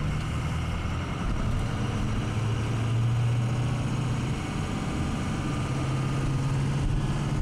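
Engine hum and road noise heard from inside a moving vehicle's cab, steady and low, the engine tone climbing a little in pitch after about five seconds.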